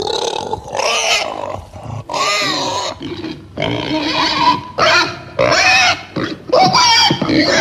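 An animal calling over and over: about seven loud, short calls, roughly one a second, each with a pitch that bends up and down.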